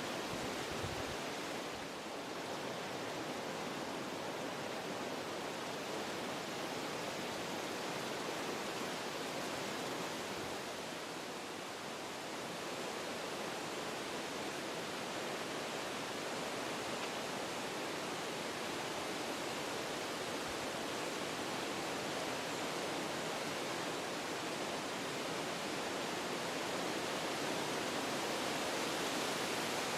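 Wind blowing through forest trees, a steady rush of noise that eases slightly a couple of times and builds a little near the end.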